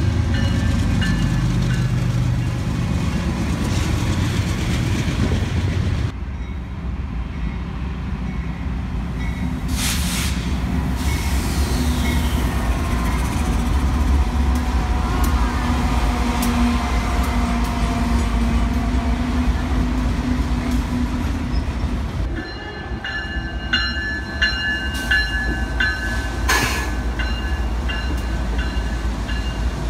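BNSF diesel-led freight trains passing close by, with a steady rumble of locomotive engines and rolling cars. A long horn blast sounds in the middle stretch. Near the end a grade-crossing bell rings rapidly as a locomotive rolls past.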